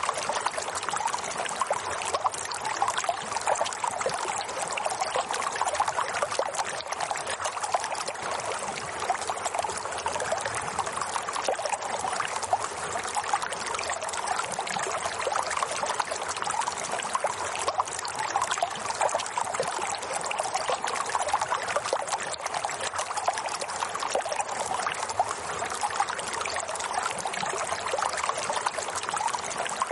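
Running water trickling and splashing steadily, like a small stream, with no change in level.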